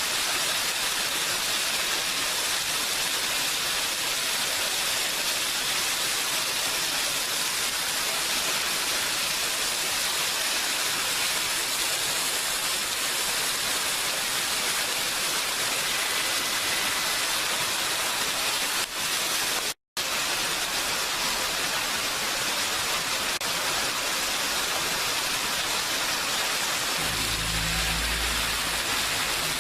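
Steady, dense rain sound, a continuous hiss of rainfall. It cuts out for an instant about two-thirds of the way through, and a low rumble comes in under it near the end.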